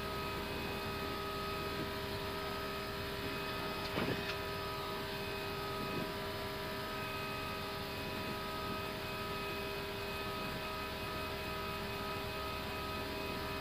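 Airbus A320 cockpit in the climb after takeoff: a steady rush of engine and airflow noise under a steady electrical hum. A brief faint click comes about four seconds in.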